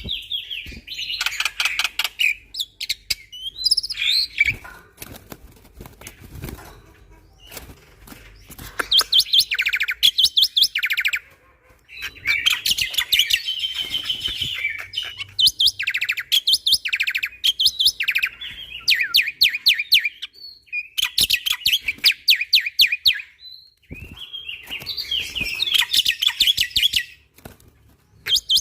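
Black-winged myna (jalak putih) singing loudly in phrases of fast, rattling repeated notes and harsh chatter, each a second or so to three seconds long, broken by short pauses.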